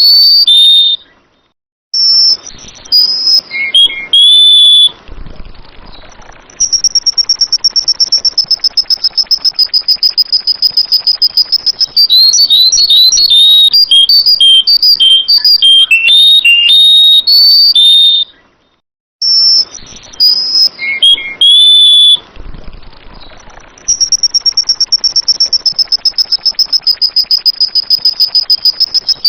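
Sooty-headed bulbul song: loud, clear whistled phrases alternating with long stretches of a fast, even, high trill. After a short break the same sequence runs again.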